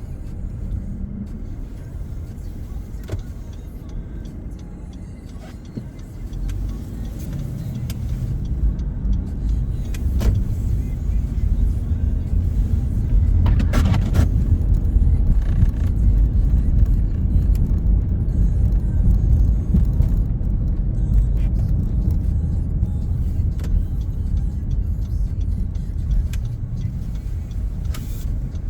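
Road and engine noise inside a moving car: a low rumble that grows louder from about six seconds in as the car speeds up.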